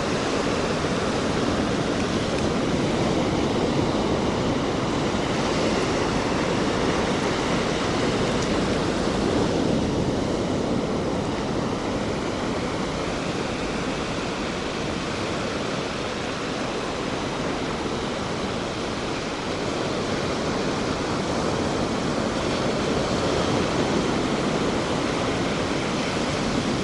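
Surf breaking and washing continuously on a sandy beach: a steady, even rush that swells and eases slightly.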